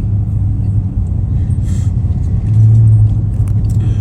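Car interior rumble while driving: a steady low drone of engine and road noise, swelling briefly about two and a half seconds in.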